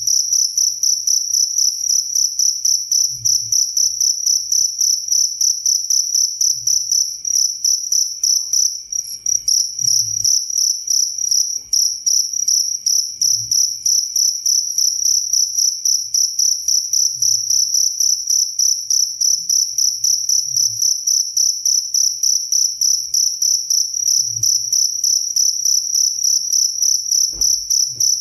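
Cricket (jangkrik) singing continuously at close range: a loud, high-pitched chirping made of rapid, evenly spaced pulses that falters only briefly once about nine seconds in.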